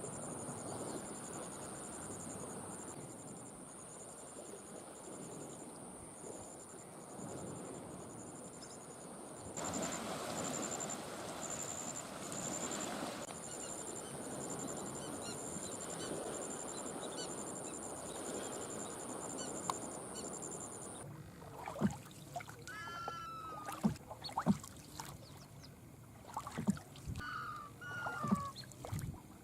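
Steady rushing noise for about twenty seconds, with a continuous high whine and a rapid pulsing chirp above it. Then it drops away and geese call in a series of honks, mixed with scattered knocks.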